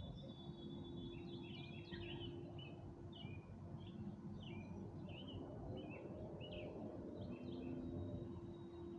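Birds chirping in a quick run of short notes, thinning out near the end, over a steady low background rumble.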